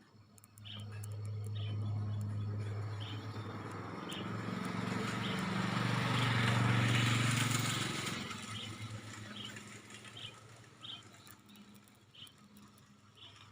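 A motor vehicle passes by: an engine hum rises from about a second in, is loudest in the middle, and fades away after about ten seconds. Short high chirps, likely a bird, repeat about once a second throughout.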